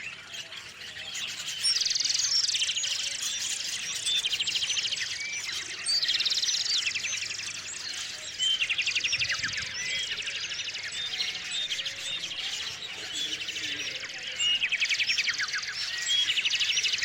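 Small songbirds chirping and singing, with a fast trilled song coming in about every three to six seconds over steady high chirping.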